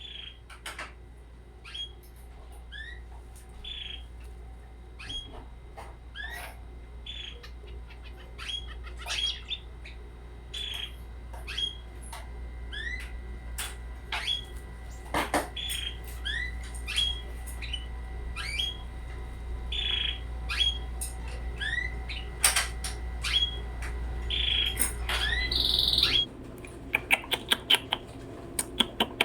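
Twenty-day-old red canary young calling with short rising chirps, one or two a second. A low steady hum underneath stops about three seconds before the end, followed by a quick run of sharp clicks.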